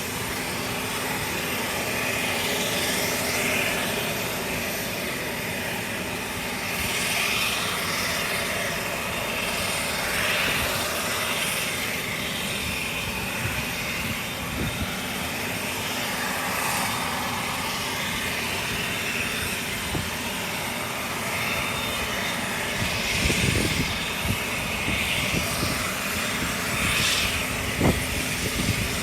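Pratt & Whitney Canada PW150A turboprop engine of a DHC8-Q400 running during engine start: a steady rushing whine that swells every few seconds. A few low thumps come near the end.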